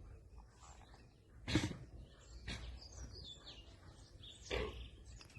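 Birds chirping faintly, with a few brief, louder knocks or rustles about a second and a half in and again near the end.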